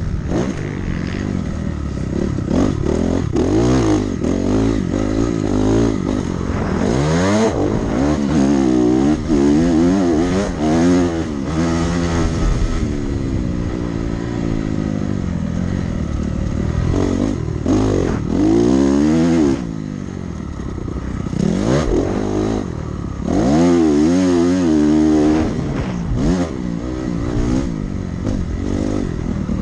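Dirt bike engine revving up and falling back again and again as the rider works the throttle and shifts around a motocross track, easing off briefly about two-thirds of the way through.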